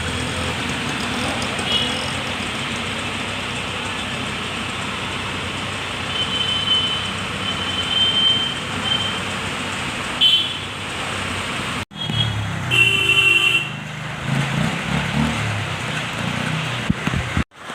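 Street traffic running steadily with vehicle horns honking several times, the loudest about thirteen seconds in. The sound cuts out abruptly for a moment twice, near twelve seconds and near the end.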